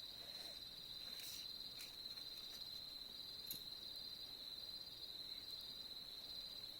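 Crickets chirring in a steady, unbroken high trill, faint, with a few soft snaps from a campfire about a second and a half and three and a half seconds in.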